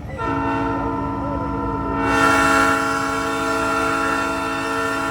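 Truck-mounted Nathan Airchime P3 three-chime train horn blown in one long chord of about five seconds, growing louder with a rush of air about two seconds in.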